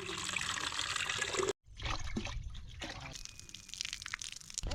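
Trickling water, cut off abruptly about a second and a half in, followed by a thinner hiss with scattered small clicks.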